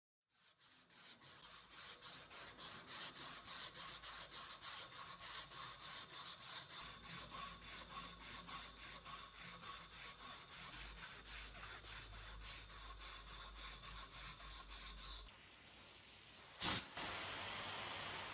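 Rhythmic back-and-forth rubbing strokes by hand, about four a second, like sanding or filing. They stop suddenly, and near the end a steady spraying hiss starts with a sharp onset.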